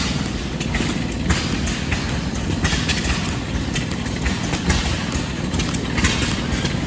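Several antique engines running together: a steady low rumble broken by irregular sharp pops.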